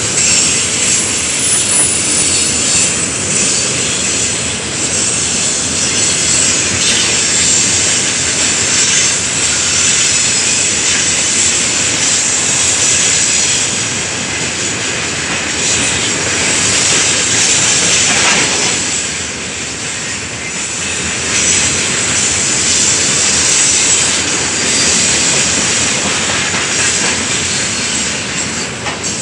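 A long, heavy freight train of loaded tank cars rolling past close by: the steady noise of its wheels running on the rails.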